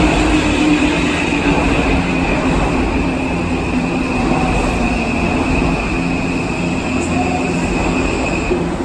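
Odakyu Romancecar EXEα (30000 series) electric train pulling into a station platform, its wheels rumbling steadily on the rails. A steady high-pitched tone runs over the rumble and stops near the end.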